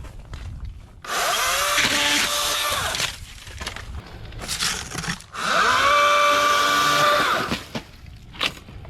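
Wild Badger 40-volt brushless battery chainsaw run twice in two-second bursts while trimming palm fronds: each time the motor whines up to speed, holds through the cut and winds down. Light clicks and crackles between the runs.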